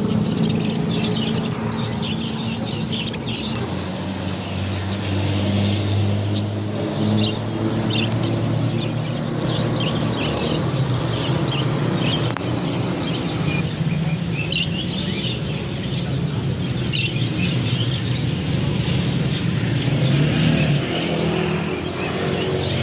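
Many caged birds chirping at once in short, overlapping calls throughout, over a steady low hum.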